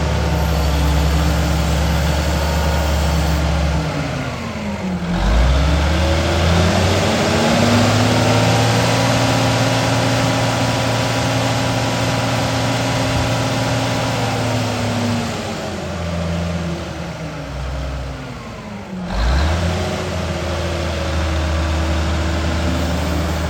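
Case IH 9270 4WD tractor's diesel engine running, its revs changing several times. About five seconds in the pitch dips, then climbs to a higher speed that holds for about ten seconds. It then falls back, dips once more and settles to a steady run.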